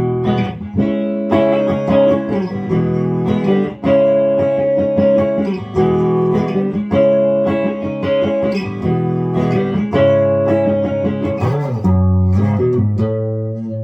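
Copy of a Gibson DG-335 semi-hollow electric guitar played through an amplifier on its neck pickup: chords struck and left to ring, moving through a short repeating progression.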